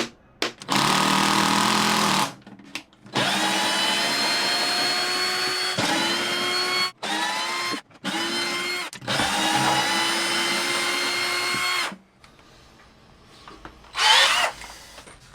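Power drill running in about six bursts of varying length, its motor whine rising in pitch as it spins up at the start of each. A short scraping burst follows near the end.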